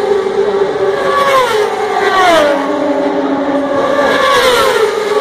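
Racing superbike engines at high revs as several bikes pass one after another, each engine's pitch dropping as it goes by.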